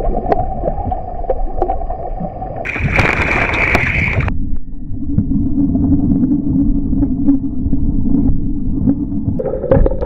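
Heavy wind buffeting the microphone on a kayak at sea, over water sloshing and splashing against the hull, with scattered small knocks and splashes.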